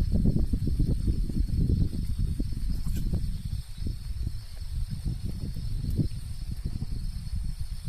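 Low rustling and crackling close to the microphone, weakening after about three seconds, over a steady high insect drone.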